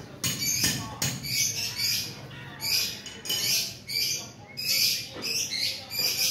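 Birds chirping: a repeated series of short, high calls, one or two a second.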